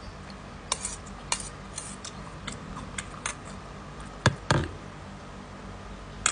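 Scattered light clicks and taps of eating at a meal table, with two louder knocks close together about four and a half seconds in.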